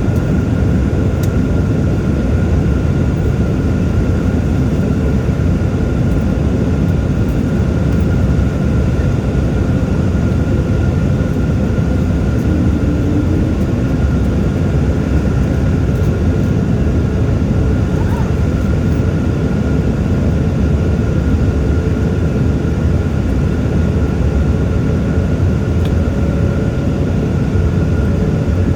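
Jet airliner in flight heard from inside the passenger cabin: steady, unchanging engine and airflow noise, heaviest in the low end, with a faint steady high tone.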